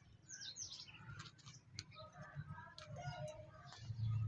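Pet parrot chirping, with a few quick high falling chirps about half a second in, followed by a series of short, varied calls and sharp clicks.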